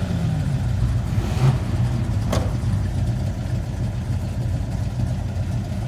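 Car engine idling with a steady low rumble, its pitch dropping at the start as a rev dies away. A single sharp click about two seconds in.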